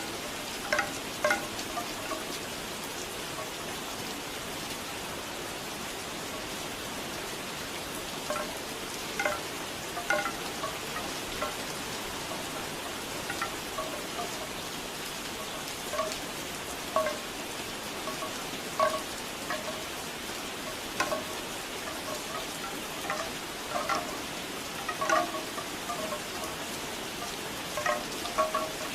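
Bamboo wind chimes clonking irregularly in small clusters over steady falling rain.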